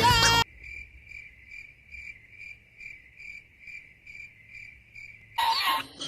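Cricket chirping sound effect: an even run of short high chirps, about four a second, the stock comedy cue for an awkward silence. Music cuts off about half a second in, and a loud burst of new sound comes in near the end.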